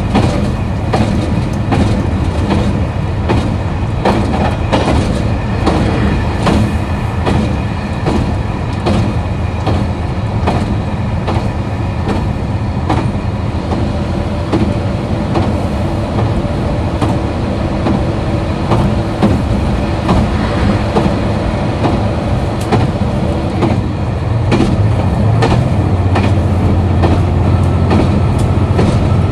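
KiHa 261 series diesel railcar running with its diesel engine droning steadily under the clatter of wheels over rail joints. The engine note grows louder and heavier in the last few seconds.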